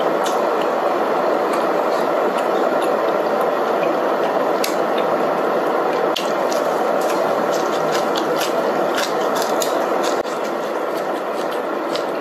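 Close-miked chewing of crisp fresh coriander sprigs: many small crunching clicks over a steady bubbling of hotpot broth.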